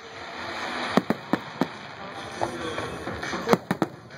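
Aerial fireworks shells bursting in quick succession. There is a run of sharp bangs about a second in and another run about three and a half seconds in, over a continuous crackling haze.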